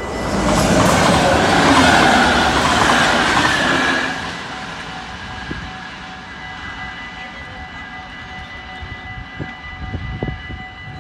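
A train passing over a level crossing, a loud rush of wheels on the rails for about four seconds before fading away, while the crossing's warning bell rings on steadily. A few knocks come near the end as the crossing barriers rise.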